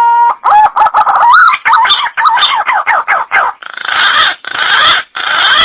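Green pigeon (punai) calling: a run of warbling notes that waver up and down in pitch, followed by three longer, rasping notes near the end.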